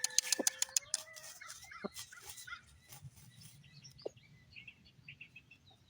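Chickens calling: a drawn-out call that rises slightly in pitch over the first second or so, among quick chirps and clucks, then sparser short chirps that grow fainter.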